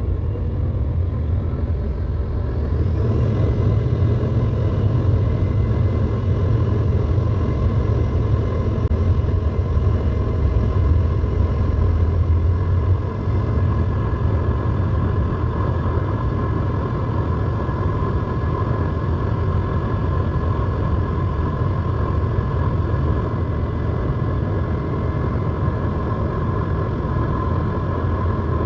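Embraer 175 jet airliner on its takeoff, its two GE CF34 turbofans at takeoff power: a heavy low rumble with a steady whine over it that comes in a few seconds in. The rumble eases about thirteen seconds in.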